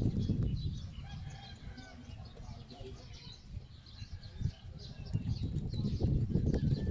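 Chickens clucking and small birds chirping repeatedly in the background. Close, low rustling and crackling noise is strong at the start, fades in the middle and comes back near the end.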